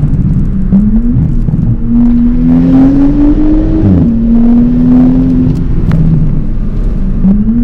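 Straight-piped exhaust of an Audi B9 S5's turbocharged V6, loud, pulling through the gears. The engine pitch climbs, drops sharply about four seconds in as it shifts up, holds, then dips and rises again near the end.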